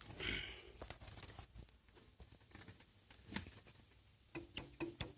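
Toyota Corolla E150 gear shift mechanism squeaking as the lever is worked back and forth: short, sharp squeaks about three a second, starting a little past the middle. The owner traces the squeak to the shift mechanism itself, since the linkages are lubricated. Before the squeaks there is a brief rustle and a single click.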